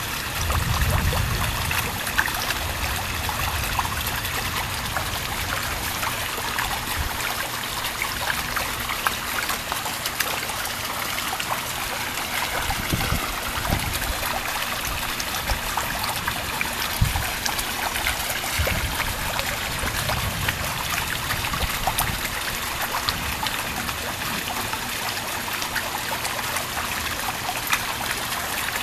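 Steady heavy rain from a thunderstorm, with water trickling and running off. A low rumble comes about a second in, with weaker low swells later.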